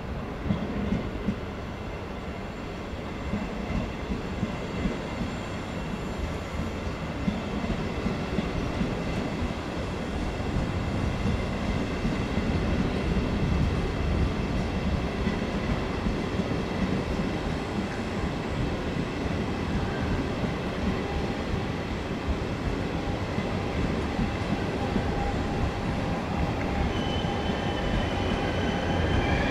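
Train running through the station with a low rumble that slowly grows louder, a few sharp clicks in the first seconds, and faint high steady tones. A high wheel squeal sets in near the end.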